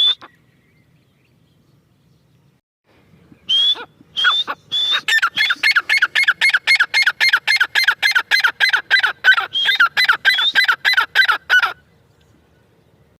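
Grey francolin (teetar), given as a female, calling: after a few seconds of quiet, a fast series of short notes that each slide down in pitch starts, speeds up to about four a second, and stops suddenly near the end.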